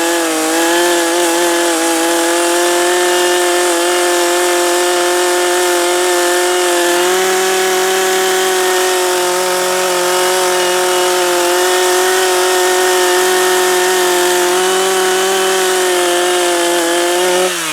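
Gas chainsaw running at high, steady revs while cutting through a large oak limb, its pitch dropping away right at the end as the throttle is released.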